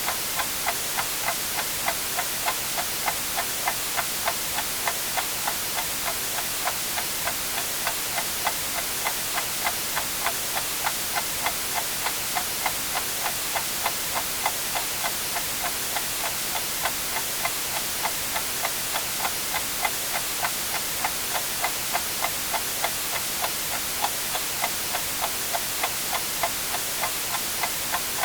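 A clock ticking evenly, about two ticks a second, over a constant white-noise hiss.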